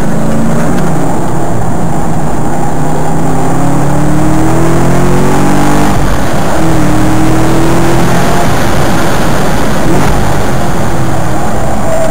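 Corvette C6 Z06's 7.0-litre LS7 V8 under hard acceleration, heard from inside the cabin: its pitch climbs, dips once about six seconds in, and climbs again, with tyre and wind noise underneath.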